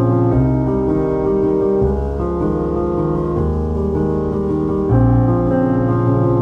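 Background piano music: sustained chords over a steady bass line, changing every second or two.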